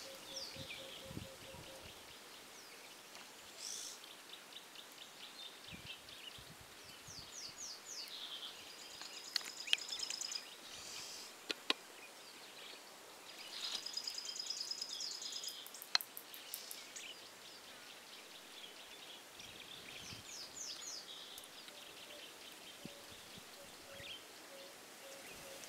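Wild birds calling: a high, rapid trilling phrase that comes back about every six seconds, with a lower, evenly pulsed call at the start and near the end. A few sharp clicks fall in between.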